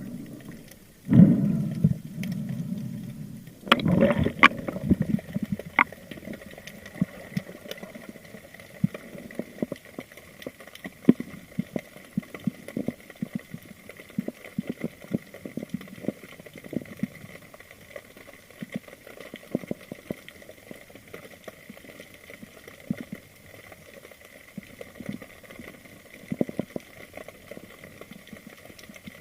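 Underwater sound through a camera housing: two loud rushes of water and bubbles in the first few seconds, then many scattered clicks and crackles over a faint steady high tone.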